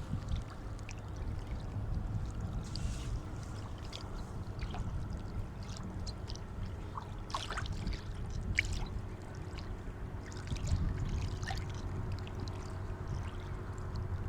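Sea water washing and lapping, a steady low rumble with scattered small splashes and fizzing crackles, busiest around the middle.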